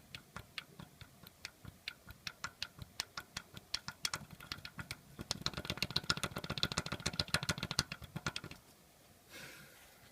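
Rhythmic sharp knocking from the oil pump drive of a BMW M20B25 engine, whose drive shaft is loose in its bearing shells. The knocks come about three a second, grow faster and louder about halfway through, then stop suddenly near the end.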